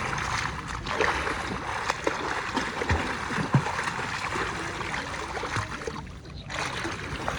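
Sea water sloshing and splashing close to the microphone, with small irregular knocks and splashes over a steady wash.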